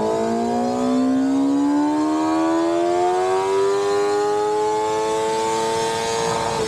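The inline-four engine of a stock 2024 Kawasaki ZX-10R is pulling at full throttle on a chassis dyno. Its pitch rises slowly and steadily through the revs and levels off near the top.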